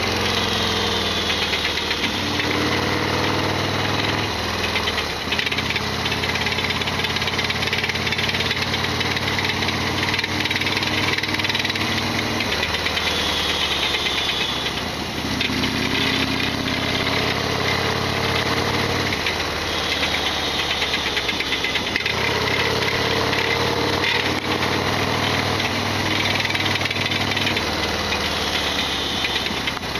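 Modified Harley-Davidson Sportster XL1200R's V-twin engine running on the move, its pitch rising and falling again and again through the throttle and gear changes, with a loud rattling clatter that the owner calls a big abnormal noise.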